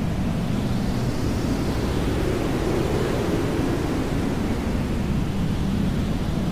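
Hair dryer running steadily: a constant rush of air with a low hum beneath it.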